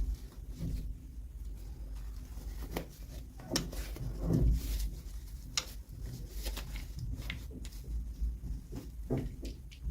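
Irregular small clicks, taps and rustles of hands handling plastic toy packaging and miniature figures, over a low steady rumble.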